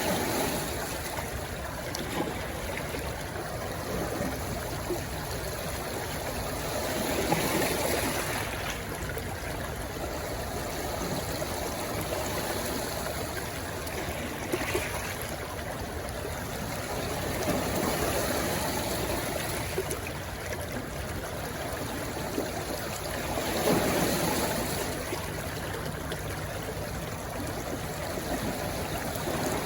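A stream rushing where it flows into the sea: a steady splashing rush of water that swells briefly every several seconds.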